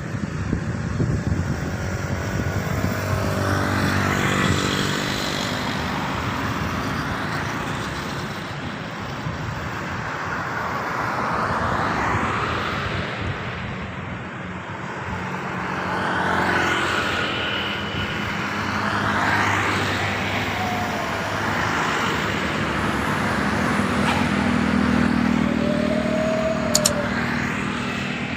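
Road traffic: vehicles passing one after another, each swelling and fading over a steady engine hum.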